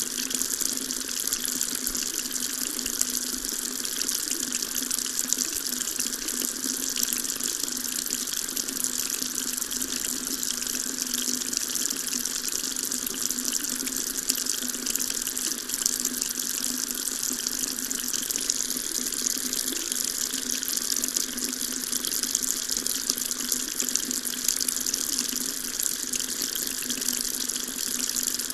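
Tap running steadily, its stream of water splashing into a sink with an even hiss.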